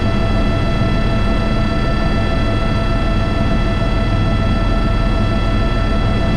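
Airbus H125 helicopter running in flight, heard from the cockpit: a steady whine of several high tones from the turbine and transmission over a dense low rotor rumble, unchanging throughout.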